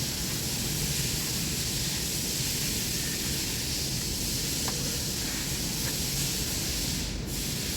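A steady, even hiss that keeps on without pauses, brightest in the upper range, with a brief drop in its highest part about seven seconds in.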